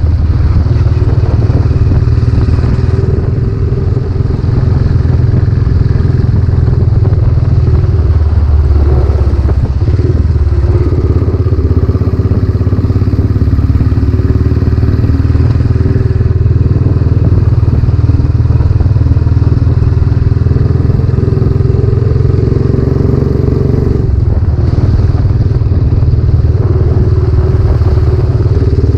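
Royal Enfield Classic 500's single-cylinder engine running on the road through a newly fitted silencer, loud and steady, its note shifting a few times, at about ten and about twenty-four seconds in.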